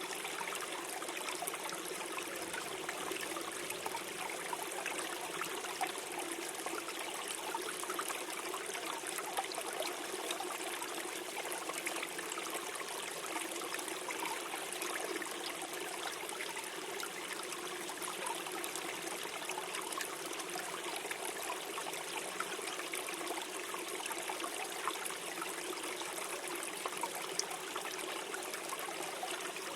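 Small forest stream flowing and gurgling steadily over stones, with little splashes and trickles throughout.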